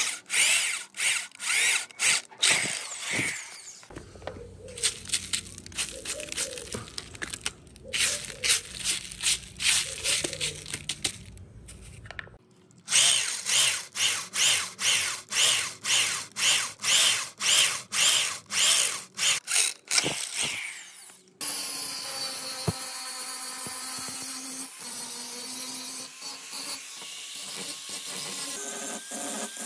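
Hand-tool work on the rusted metal parts of a stirrer: short scraping strokes repeated about two a second, in several stretches. Near the end a power tool runs steadily.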